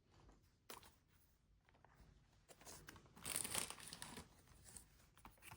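Album packaging being handled, plastic crinkling and rustling, with a sharp click a little under a second in and a louder rustle around the middle.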